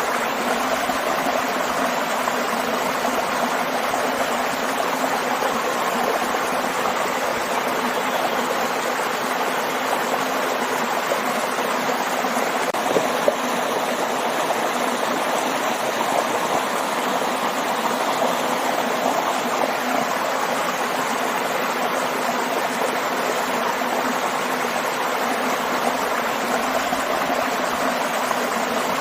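Continuous rush of a waterfall into a stream: a steady, even splashing and gurgling of falling and flowing water.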